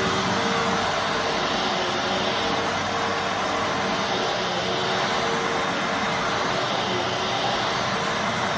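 Fantom Fury Special Edition bagless vacuum cleaner running steadily: an even rush of motor and airflow with a faint hum.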